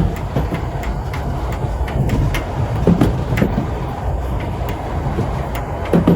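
Historic steam train rolling along the rails: a steady low rumble with irregular clicks and knocks from the wheels and running gear, the heaviest knocks about three seconds in and near the end.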